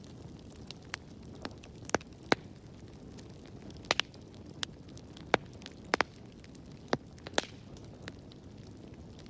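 Wood fire in a fireplace crackling: a steady low rush of burning with sharp, irregular pops and snaps, about a dozen of them, a few much louder than the rest.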